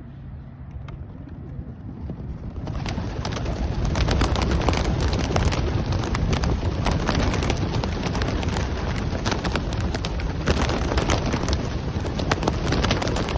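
A large flock of racing pigeons taking off at release: a dense clatter of wingbeats that swells in about two to three seconds in and keeps going.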